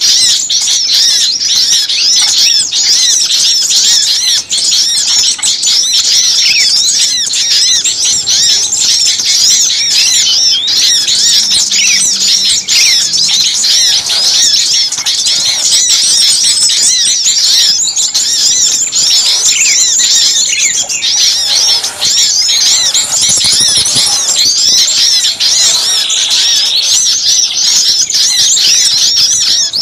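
A dense, noisy chorus of many small songbirds calling at once, with rapid high-pitched chirps, trills and squeaks overlapping without a break. It is a bird-lure recording ('suara pikat') of small birds in a commotion, used to draw other small birds in.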